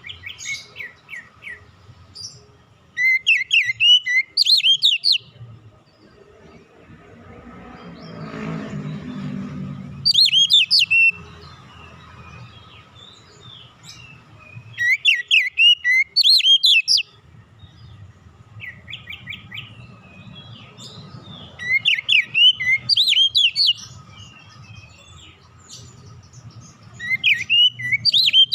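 Oriental magpie-robin (kacer) singing in short bursts of rapid, sliding whistled notes, one burst every five or six seconds. Under the song is a low background rumble that swells about eight seconds in.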